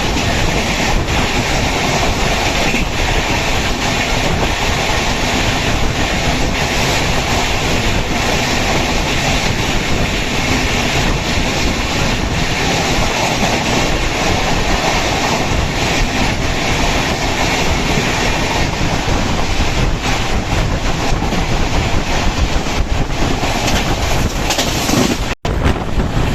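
Express passenger train running at speed: the steady rumble of the coaches with wheels clicking over the rail joints. The sound breaks off for an instant near the end.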